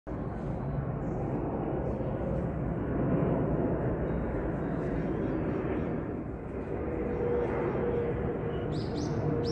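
Steady low rumble of a distant electric train approaching a station. A faint steady tone joins about seven seconds in, and a couple of short high chirps come near the end.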